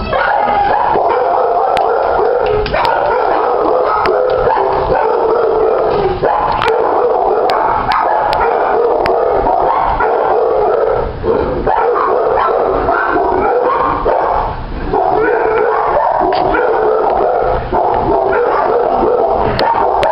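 Many dogs in animal shelter kennels barking, yipping and howling at once, a loud continuous din with no let-up.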